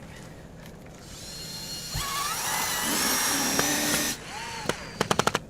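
Electric power drill whirring for about three seconds, then stopping, followed by a quick run of sharp clicks near the end.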